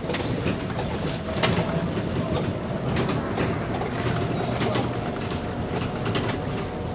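A single-deck or double-deck service bus running under way, heard from inside the saloon: a steady engine and road rumble with scattered sharp rattles and knocks from the bodywork and a faint steady whine. The bus has a slight exhaust leak.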